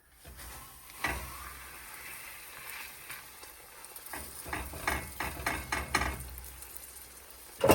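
Food sizzling in a hot frying pan, a steady hiss, with a run of quick utensil strokes from about four to six seconds in and a sharp knock near the end.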